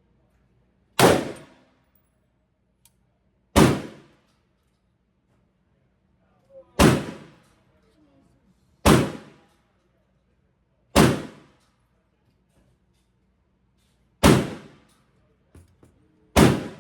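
Seven single gunshots in an indoor shooting range, spaced about two to three seconds apart, each followed by a short ringing echo off the range walls.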